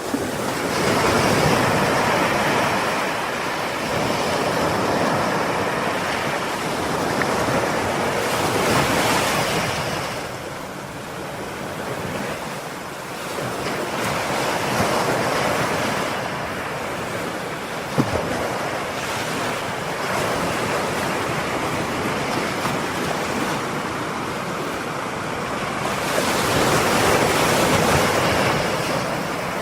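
Ocean surf: waves breaking and washing ashore in slow surges, strongest near the start, in the middle and near the end. A single short click sounds a little past halfway.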